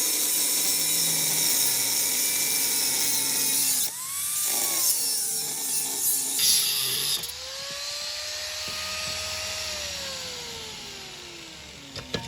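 Electric cutting machine's abrasive disc grinding into the steel shell of a fridge compressor, a loud hissing grind over the motor's whine, unsteady in the middle. Near the end the motor winds down, its pitch falling steadily as the cut stops.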